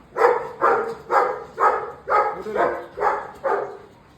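Dog barking repeatedly, about two barks a second, eight barks in a steady run.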